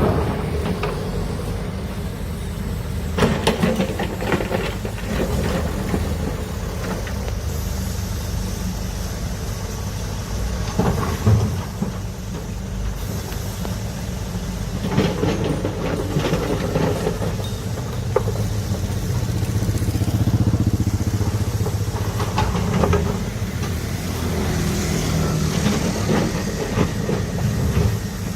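Large diesel excavator running steadily under load, with intermittent metallic clanks and knocks as it works, about five of them spread through the stretch.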